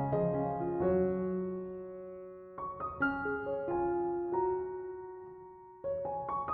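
Soft background piano music: sustained chords and single notes that ring and fade, with new notes struck about a third of the way in and again near the end.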